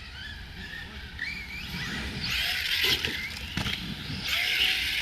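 Electric RC monster truck running flat out: a brushless motor whine that rises in pitch as it speeds up, with tyre hiss over rough ground from about two seconds in and a couple of short knocks near the middle.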